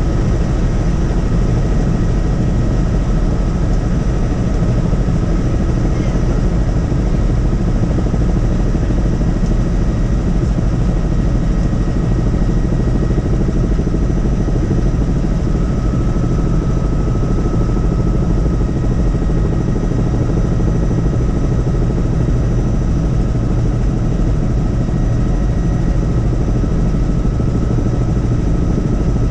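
Helicopter in flight: the steady, unbroken drone of its engine and rotor.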